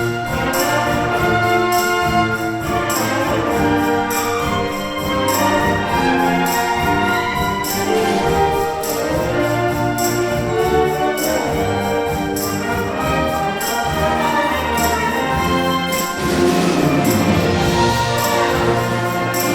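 A school brass band playing a band arrangement of a pop song live. Brass carries sustained chords over a steady percussion beat.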